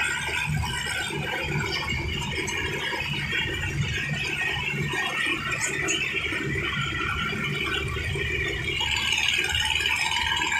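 Tractor running on the move: a low engine drone with a wavering high-pitched squeal over it, a little louder near the end.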